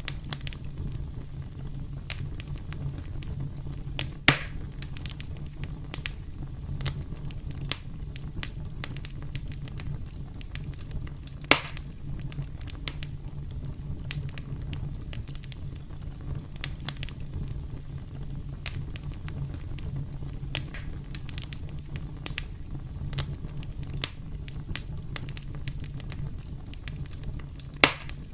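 Campfire crackling: burning wood gives a steady low rumble with frequent small snaps, and three louder pops, about four seconds in, near the middle and near the end.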